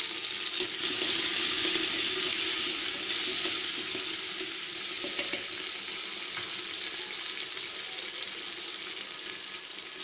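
Chopped small onions, garlic, tomato and green chilli sizzling in hot oil at the bottom of a clay pot: a steady frying hiss that swells slightly about a second in, then gradually eases off.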